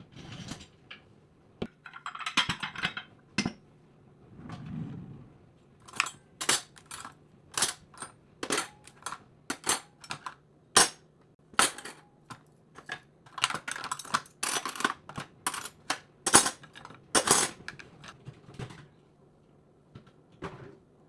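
Dishes and cutlery being handled: a quick, irregular run of sharp clinks and knocks, with a few scattered knocks first and a dense stretch from about six seconds in until near the end.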